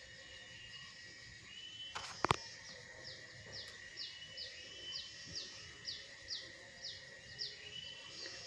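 A bird calling over and over in short, high, falling notes, about two a second, over a faint steady high tone. Two sharp clicks come about two seconds in.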